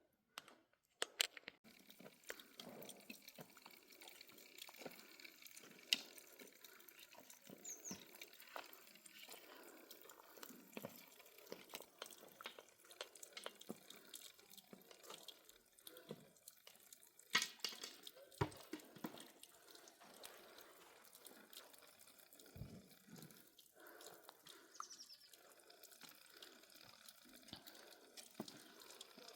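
Quiet water dripping and splashing, a steady patter of small clicks with a few sharper knocks, and two short high falling chirps.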